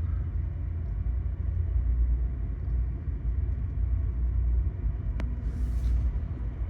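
Steady low rumble of a moving passenger train heard from inside the car, with a sharp click about five seconds in and a brief hiss just after.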